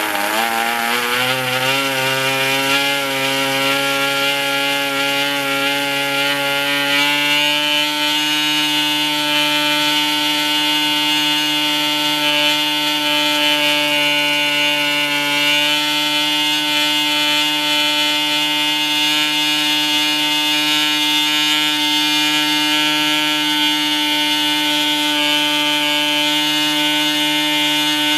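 PAW 40 model diesel engine, a two-stroke compression-ignition glow-free engine, running with a buzzing note. Its revs climb over the first several seconds, then it holds a steady speed.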